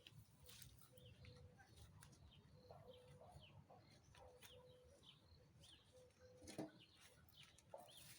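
Faint birds chirping, many short falling calls, with a single soft knock about two-thirds of the way through.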